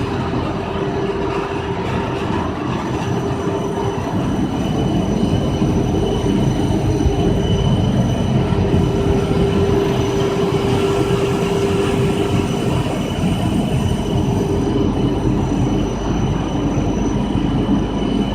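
WPC/PVC foam sheet extrusion line running: a steady industrial machine din with a low rumble, a constant humming tone and faint high whines, growing a little louder about four seconds in.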